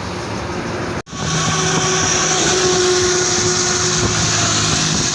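Steady noise of a moving vehicle on the road, with a few steady tones under it. About a second in it cuts out briefly and comes back louder.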